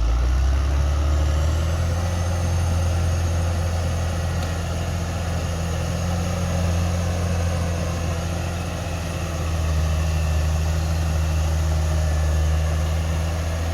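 Caterpillar D6R XL bulldozer's diesel engine running steadily at constant speed, a deep even drone with a faint high whine above it.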